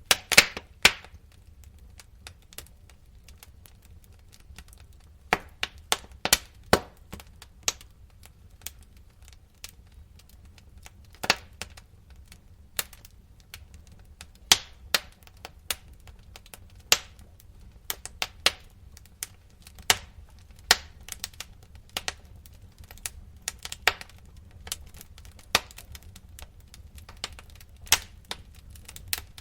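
Wood fire crackling: irregular sharp pops and snaps over a low steady rumble, with a cluster of the loudest pops right at the start.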